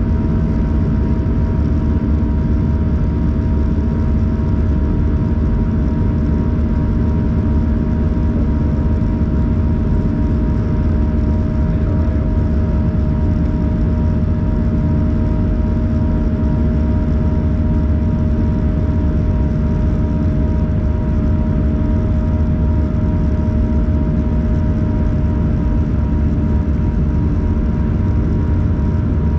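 Airliner cabin noise inside an Airbus A321-111 in flight: the CFM56 turbofans and the airflow make a steady deep roar, with a few constant hum tones over it that do not change.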